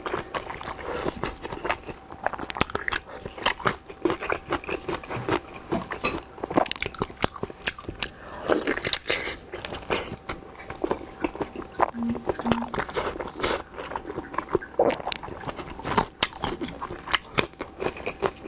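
A person chewing and biting braised pork skin rolls: a dense, irregular run of mouth clicks and smacks.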